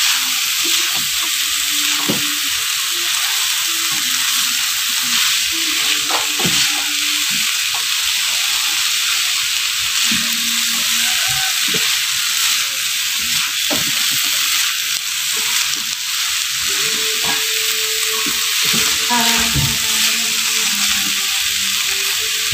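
Sliced tempe in a sticky sugar-and-soy glaze sizzling in a wok, a steady hiss, while a spatula stirs through it with scattered scrapes and knocks against the pan.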